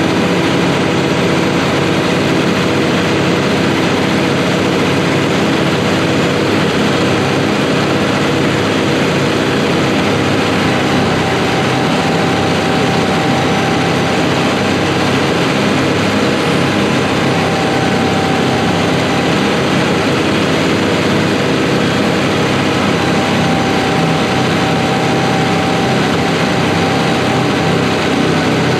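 Tractor's diesel engine running steadily; its note shifts slightly about eleven seconds in.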